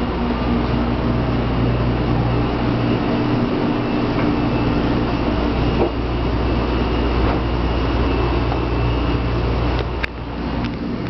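Steady hum and rush of a stopped 0 Series Shinkansen train's onboard equipment. There is a sharp click about ten seconds in, after which the sound drops a little.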